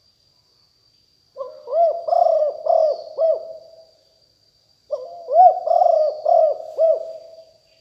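Spotted dove cooing: two phrases of low, throaty coos, each a run of four or five arching notes, the first starting about a second and a half in and the second about five seconds in. A faint steady high whine runs underneath.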